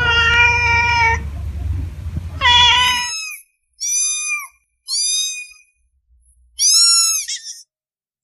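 A young animal's high-pitched cries: two drawn-out calls over a low rumble, then, against a quiet background, several shorter cries that fall in pitch at the end.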